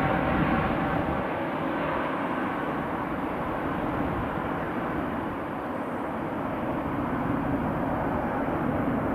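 Jet noise from a departing Airbus A320 airliner's engines: a steady wash of engine noise that eases slightly in the middle and swells again near the end.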